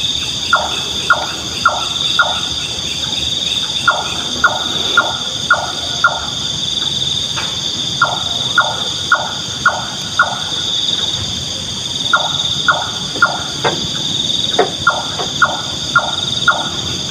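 A nightjar calling: short, sharp, knocking notes about two a second in bouts of four or five, with short pauses between bouts. Behind it is a steady high drone of crickets or other insects.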